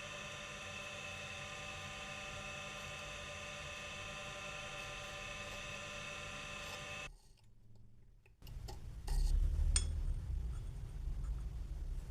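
A metalworking machine tool running with a steady, even hum made of many fixed tones, which cuts off suddenly about seven seconds in. After a brief near-silent gap, a louder low rumble with a few sharp clinks begins.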